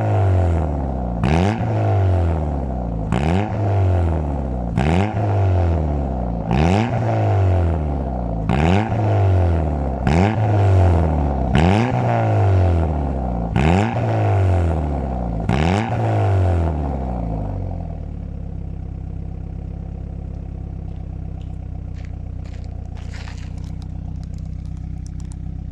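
Ford Zetec four-cylinder engine in a Mk4 Fiesta being revved in quick throttle blips, about one every two seconds, the note rising sharply and falling back each time. After about nine revs it drops to a steady idle.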